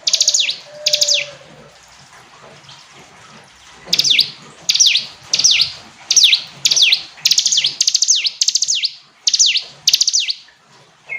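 Ciblek gunung (a prinia) singing loudly and clearly. Each short phrase is a quick run of high notes sliding downward. Two phrases come at the start, then after a pause of about two seconds the bird sings about ten phrases in close succession, roughly two a second.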